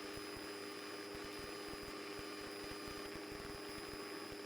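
Faint steady hiss with a low hum and a few steady tones, unchanging throughout: the quiet noise floor of the cockpit intercom audio feed between transmissions.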